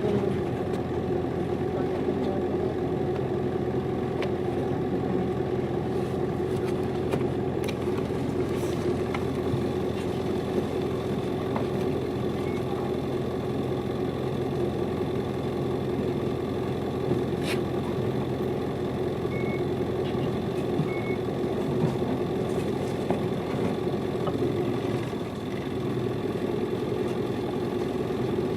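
Hino Liesse minibus's diesel engine running steadily as the bus drives along, heard from inside the passenger cabin as a constant drone. Light rattles and clicks from the cabin come through now and then, and the sound dips briefly near the end.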